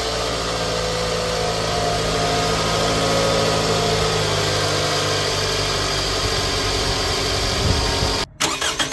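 2008 Scion xB's 2.4-litre four-cylinder engine idling steadily on its old oil, before an engine flush and oil change, at about 352,000 miles. The sound cuts out briefly near the end.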